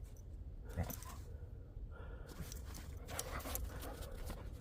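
A dog panting softly over a low steady rumble, with a few faint light ticks.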